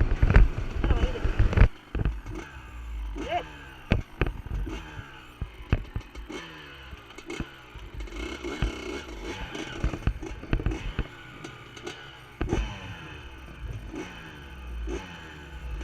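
Two-stroke motocross bikes revving up and shifting, the engine pitch climbing, dropping and climbing again over and over. Loud knocks in the first couple of seconds.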